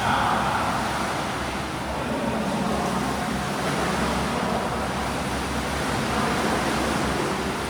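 Steady rushing wash of pool water churned by swimmers doing breaststroke drills, swelling and easing slightly.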